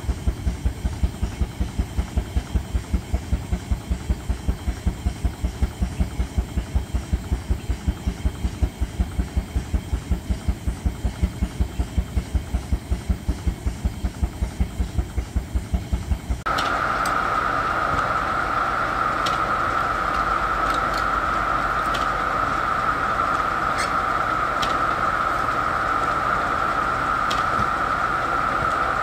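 A steam traction engine's exhaust chuffing in a fast, even beat. About two-thirds of the way through it cuts off sharply, giving way to a steady high-pitched whine with occasional faint ticks.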